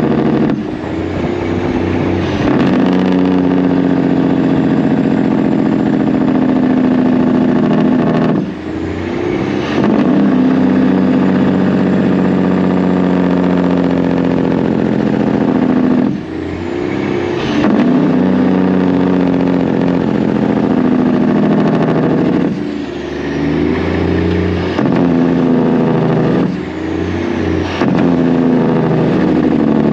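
Semi-truck's diesel engine pulling hard under load, dropping off briefly every several seconds as it shifts gears, then building again. At some of the shifts a faint high whistle winds down.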